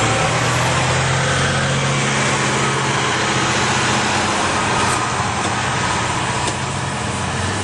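Vehicle engine running steadily with a low hum, under a constant hiss.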